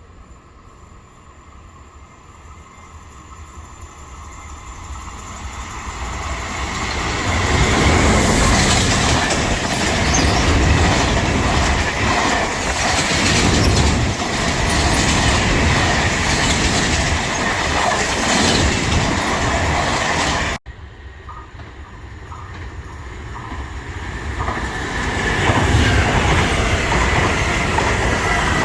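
An electric train approaches and runs past, its wheels clattering over the rail joints, with a steady high tone over a rumble. About two-thirds of the way in the sound cuts off abruptly, and another train is heard approaching and growing louder.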